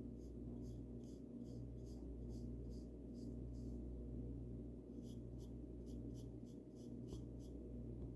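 A paint brush brushing paint onto a bird house: a run of short, scratchy strokes at about two to three a second. The strokes pause for about a second near the middle, over a steady low hum.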